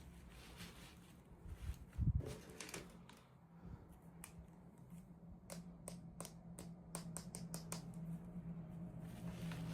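Small plastic toy pieces and packaging being handled: light clicks and taps, a thump about two seconds in and a quick run of clicks past the middle, over a faint steady hum.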